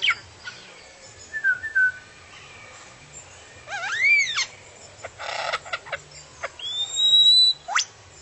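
An unidentified bird calling with a varied series of whistles: an arched, up-and-down whistle, a short raspy call, a long rising whistle held high, and a quick upward sweep near the end.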